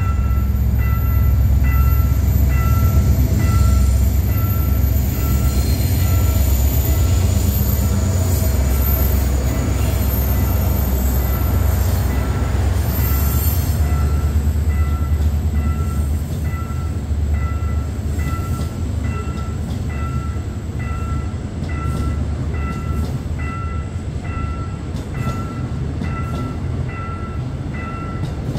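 A train passing over a level crossing, with the low heavy rumble of its wheels on the rails easing off toward the end. The crossing's warning bell dings steadily about one and a half times a second, and there is a faint high wheel squeal around the middle.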